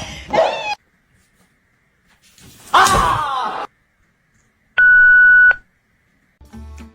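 A dog's drawn-out groan, falling in pitch, after a brief rising whine at the start. It is followed by one loud, steady electronic beep lasting under a second, which starts and stops abruptly, and soft music begins near the end.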